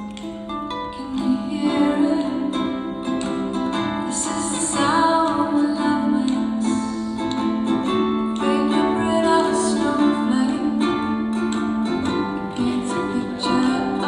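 Live acoustic guitar picking the instrumental introduction of a slow ballad, with a held low note under the plucked chords.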